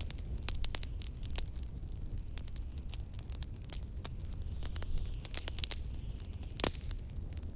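Wood fire crackling in a fireplace, with frequent sharp pops and snaps and one louder pop near the end, over a steady low rumble of blizzard wind.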